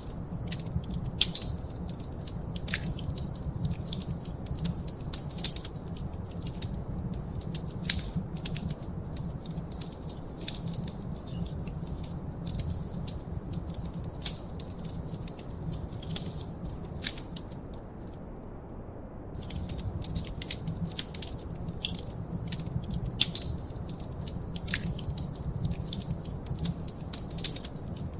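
Wood fire in a fireplace crackling, with frequent sharp pops and snaps over a steady low rumble of the burning. About two-thirds of the way through, the crackling stops for a second or so, then resumes.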